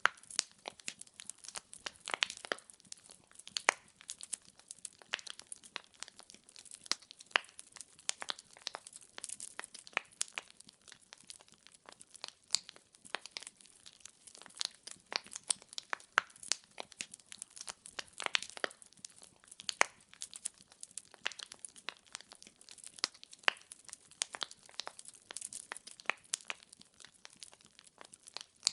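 Wood fire crackling: a dense, irregular run of sharp pops and snaps from burning logs, with no rhythm.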